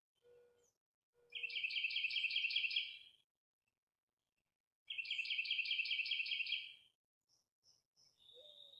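A songbird singing two trilled phrases, each about two seconds of quickly repeated notes, with a pause of under two seconds between them. Short, lower single notes come a moment before the first trill and again near the end.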